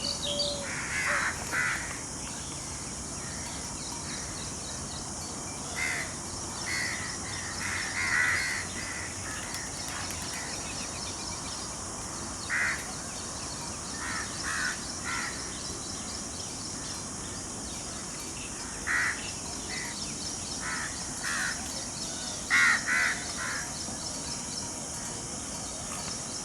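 Birds giving short, harsh calls, mostly in twos and threes every few seconds, over a steady high hiss.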